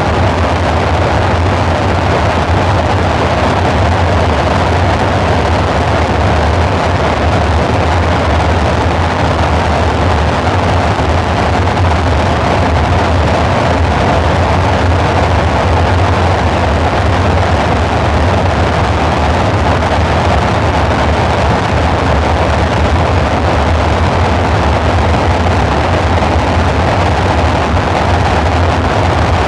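Dark ambient synthesizer drone: a steady, dense rumble with a deep low hum under a noisy mid-range wash, unchanging throughout.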